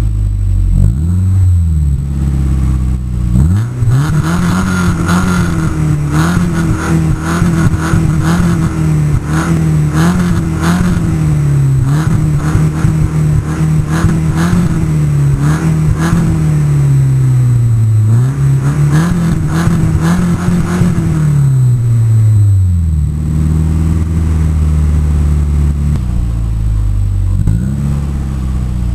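Mercedes-Benz 190E engine and exhaust revved from idle by the throttle: it rises a few seconds in and is held at raised revs with small wavers for several seconds, drops back, climbs once more, then settles to a steady idle, with a short blip near the end.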